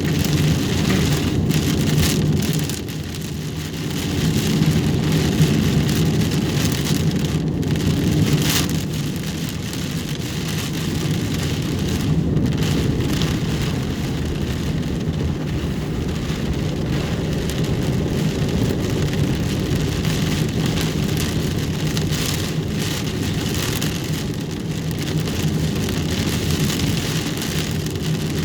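Heavy rain pelting a vehicle's roof and windshield, heard from inside the cab, over the steady low hum of the vehicle moving down the road.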